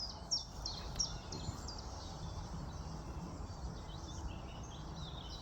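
Small birds chirping repeatedly, short high calls that each fall in pitch, over a steady low rumble.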